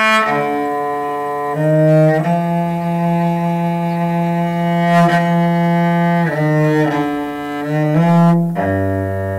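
Solo cello playing a slow melody of long bowed notes, one held for about four seconds, dropping to a low note near the end.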